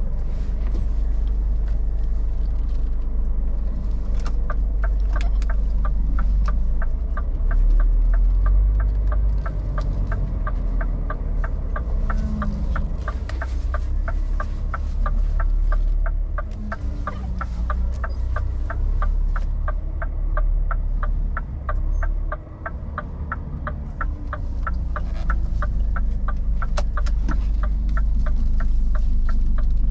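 Scania R500 truck's V8 diesel running at low speed while manoeuvring to park. From about four seconds in, a regular ticking sounds over it, about three ticks a second.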